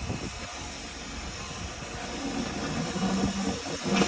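Steady rushing air noise with low rumbling underneath; a faint steady hum comes in about halfway through.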